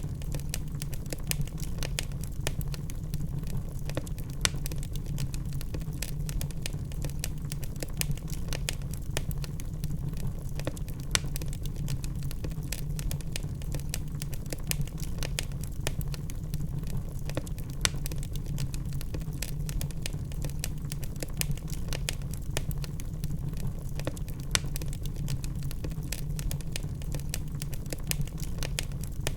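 Wood fire burning in a fireplace: frequent small crackles and pops from the burning logs over a steady low rumble of the flames, with a few louder pops now and then.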